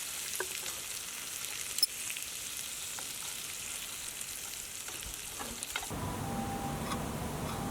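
Meat sizzling as it fries over a campfire, a steady hiss with small crackles and pops. About six seconds in it cuts off abruptly to a low rumbling noise with faint steady tones.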